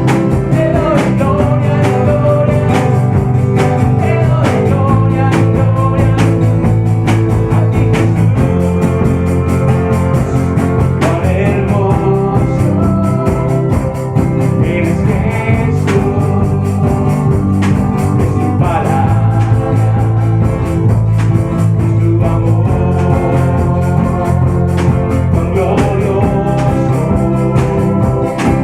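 A band playing a worship song, with sustained chords, a steady beat and a melodic line that recurs every several seconds.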